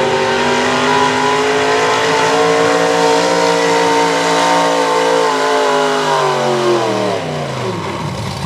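1978 Chevrolet pulling truck's V8 engine running at high revs under load, holding a steady pitch as it drags the sled. About six seconds in, the revs fall away over a couple of seconds as the pull ends.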